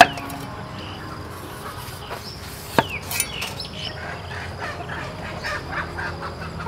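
Birds chirping in the background, with short calls that come thicker in the second half. A sharp click right at the start and another just under three seconds in stand out above them.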